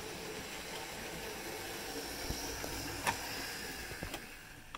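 Model railway train of two GWR Prairie tank locomotives double-heading, running on the track with a steady hissing whir. Sharp clicks come about three and four seconds in, and the sound fades near the end.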